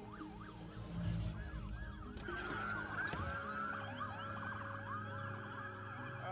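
Emergency-vehicle sirens: a fast yelp at first, then several sirens wailing over one another and growing louder from about two seconds in.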